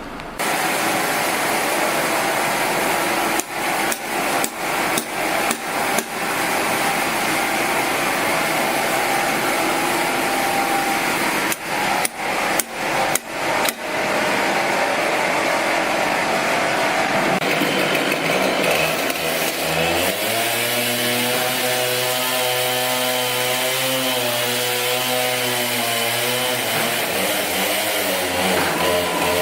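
Wood-cutting machinery running loudly, with two runs of sharp knocks or bangs, then a steady, slightly wavering engine or motor drone takes over about two-thirds of the way in.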